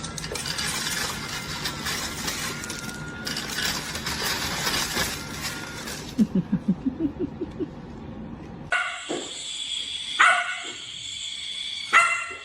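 A dog vocalizing: a quick run of short yips about halfway through, then a few short barks near the end.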